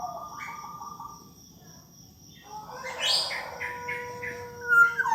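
Black-naped oriole singing fluty whistles: held notes at first, a short pause, then from about three seconds in a run of short notes and held whistles, ending in a loud falling whistle.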